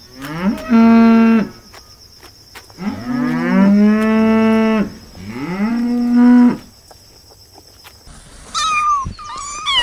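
Zebu cattle mooing: three long, low moos, each gliding up in pitch at its start, the middle one the longest. About eight seconds in the mooing stops and short, higher, wavering animal calls begin.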